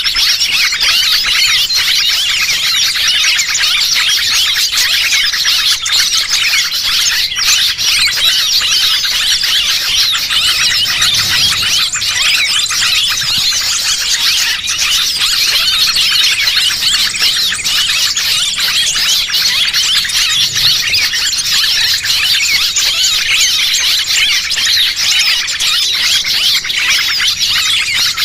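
Bird-lure (pikat) call for small birds: a dense, unbroken chatter of many high, rapid chirps and squeaky calls from small songbirds, overlapping continuously.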